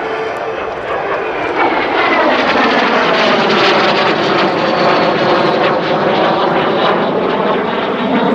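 Aero L-39 Albatros jet engine roaring past in a low flyby, swelling about two seconds in, its whine sliding down in pitch as it passes.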